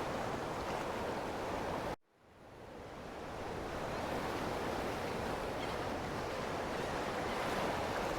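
Ocean surf: a steady rush of waves that cuts out abruptly about two seconds in and fades back in over the following second or two.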